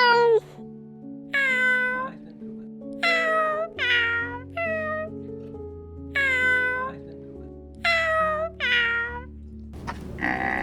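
Domestic cat meowing repeatedly, about six separate meows, each falling in pitch, over background music. Near the end a different, noisier sound begins.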